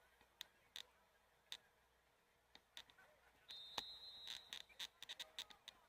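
A referee's whistle blows once, briefly and high, about three and a half seconds in, amid scattered faint clicks and knocks.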